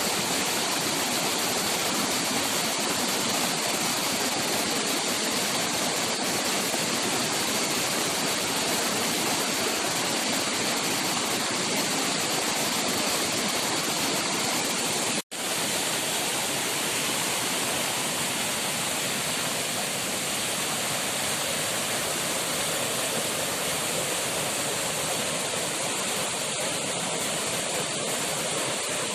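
Steady rushing noise of flowing water, with a brief total dropout about fifteen seconds in.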